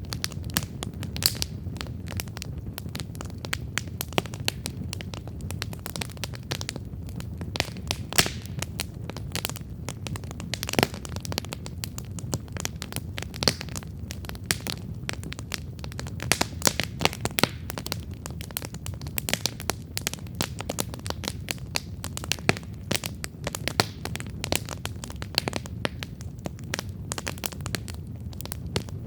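Wood campfire burning, with a steady low rumble of flame and irregular sharp crackles and pops several times a second.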